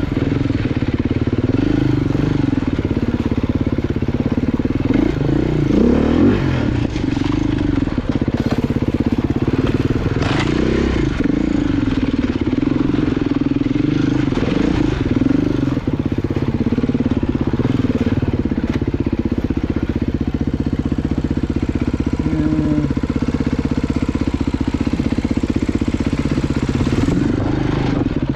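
Off-road motorcycle engine running on a trail ride, its revs rising and falling with the throttle, with a few short knocks and clatter from the bike going over rough ground.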